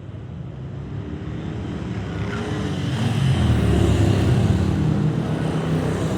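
Vintage motorcycle engine running as it approaches, growing steadily louder over the first three seconds or so, then holding close and loud.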